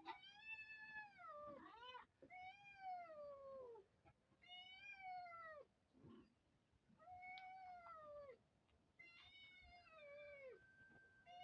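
A domestic cat meowing over and over: about five drawn-out calls, each around a second and a half long, with the pitch sliding down at the end of each.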